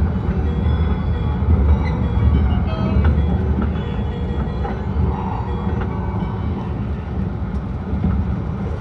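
Akita Shinkansen E6-series train running, heard from inside the passenger cabin: a steady low rumble of wheels on rails and the car body, easing slightly in level toward the end.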